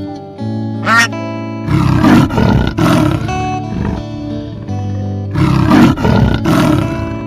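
Two long, rough roars from a large wild animal over steady background music, with a short rising-and-falling call about a second in.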